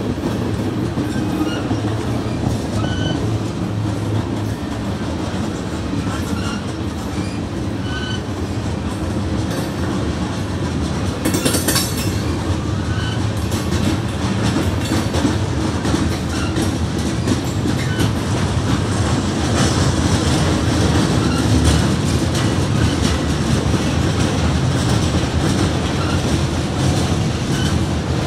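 Freight train of covered hopper cars rolling slowly past, a steady rumble with the clickety-clack of wheels over the rail joints. A brief high-pitched screech of wheels on rail about halfway through.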